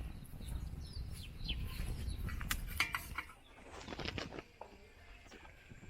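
Birds chirping, short calls gliding up and down, over a low rumble that fades about halfway through; a few sharp clicks come between two and three seconds in.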